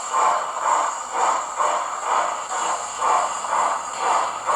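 Hornby model Flying Scotsman locomotive's onboard sound playing slow, steady steam exhaust chuffs, about two a second.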